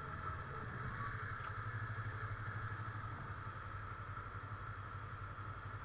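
Yamaha YZF-R25's parallel-twin engine running steadily at low revs in slow city traffic.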